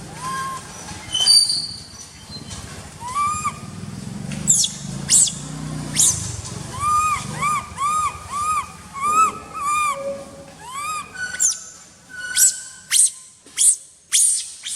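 Baby macaque crying, typical of a hungry infant begging for milk: a long run of short rising-and-falling whimpering cries, coming quickly one after another, that turn into sharper, higher-pitched shrieks over the last few seconds.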